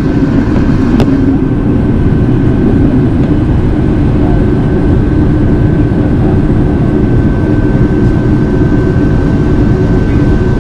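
Steady in-flight cabin noise inside an Airbus A380: an even rumble of engines and rushing air with a thin constant whine above it.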